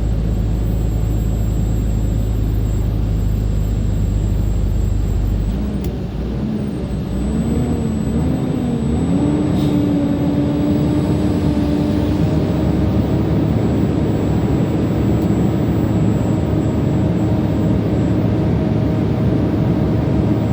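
Heavy truck's diesel engine labouring up a steep grade under load. About six seconds in, the engine note dips and wavers, then settles into a steady higher drone, as the drive wheels slip on the oily, wet road.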